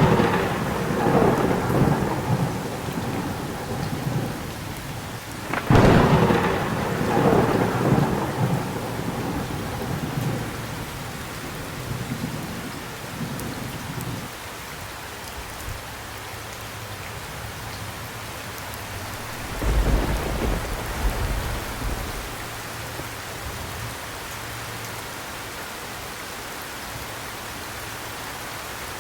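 Thunderstorm with steady heavy rain. A sharp crack of thunder at the start rolls into rumbling. A second sharp crack about six seconds in rumbles on for several seconds. A deeper, lower rumble comes around twenty seconds in.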